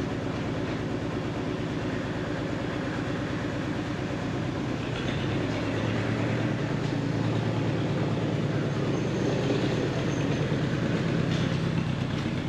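A vehicle engine running steadily, with rattling, picking up a little in strength about five seconds in.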